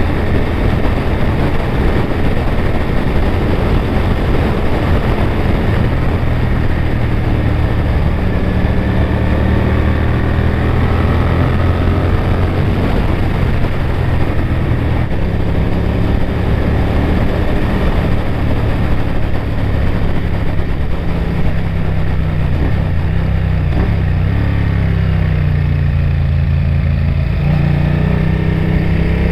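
Honda VTR1000F Firestorm's V-twin engine pulling hard under way. Its note holds and then shifts pitch several times, as through gear changes.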